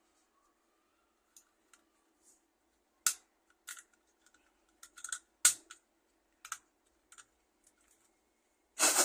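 Sharp clicks and small scrapes of a tool prying the coin-cell CMOS battery out of its holder on a motherboard. The clicks come irregularly, with the loudest about three, five and a half and nine seconds in.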